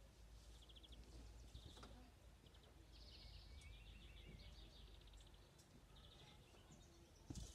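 Near silence with faint songbird chirps: short rapid trills, repeated every second or so.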